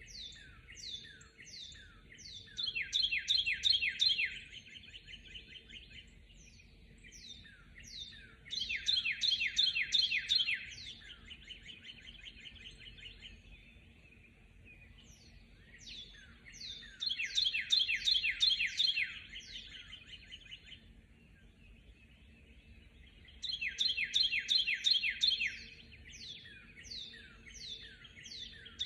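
Songbirds in a dawn chorus. One song, a fast run of repeated down-slurred notes lasting two to three seconds, comes back four times, roughly every six to eight seconds, with scattered single chirps in between.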